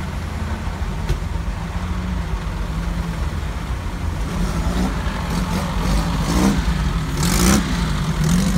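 Vintage 1930s car engines idling and running at low speed, a steady low rumble. Brief bursts of hiss come in the second half, the loudest about seven and a half seconds in.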